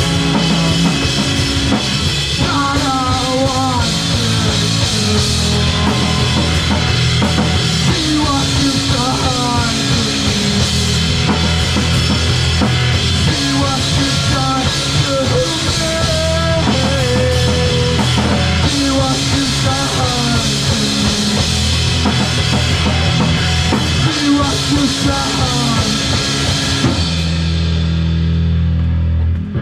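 Live rock band playing a song with a full drum kit and amplified instruments, a wavering melody line running over the top. The high end falls away shortly before the end.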